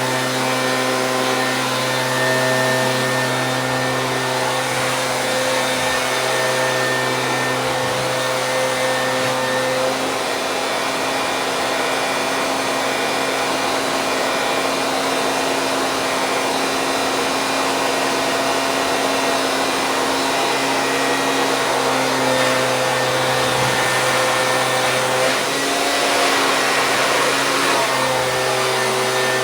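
Stihl BG 86 handheld leaf blower's two-stroke engine running steadily with its fan whooshing, the pitch shifting a little a few times.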